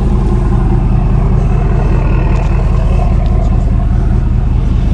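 A vehicle engine idling with a loud, steady low rumble, with a few faint clicks in the middle.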